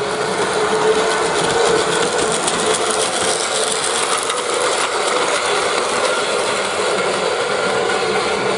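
Battery-powered Plarail toy train running on plastic track: the steady whirr of its small motor and gearbox.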